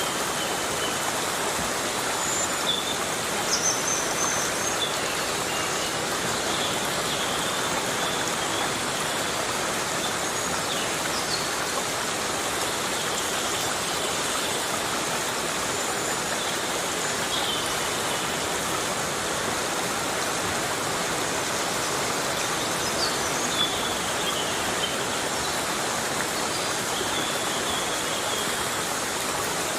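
Heavy rain falling steadily in a rainforest, an even hiss with no pauses. Faint, short high-pitched chirps come and go through it.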